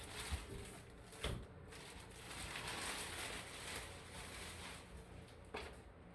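Faint rustling with a couple of light taps, about a second in and near the end.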